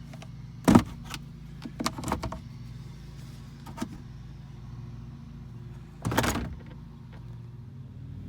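2019 Toyota Tundra gear shifter being worked in the center console, squeaking and clicking in short bursts where two plastic pieces of the console rub together: one sharp noise about a second in, a quick cluster around two seconds, one near four seconds and a longer half-second rub about six seconds in. Underneath is the steady low hum of the truck running.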